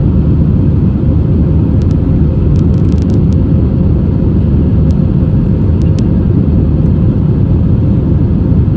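Steady cabin noise inside an Airbus A320: a loud, even rumble of engines and airflow with a faint steady hum and a few faint ticks about two to three seconds in.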